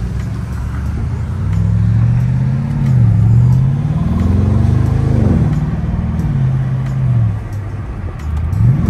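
BMW car engine heard from inside the cabin, accelerating away: its note climbs and drops twice as it shifts up, runs level for a moment, then falls away as it eases off near the end.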